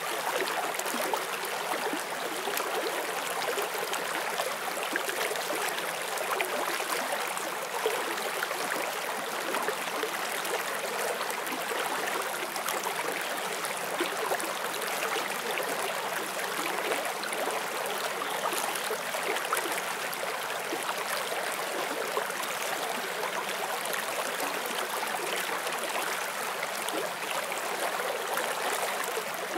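Forest stream flowing over stones, a steady rush of water with fine gurgling and splashing, even in level throughout.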